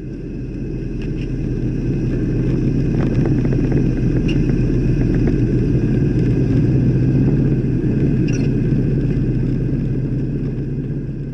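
Car engine running at a steady idle with a deep, even rumble and faint ticks, fading in at the start and out near the end.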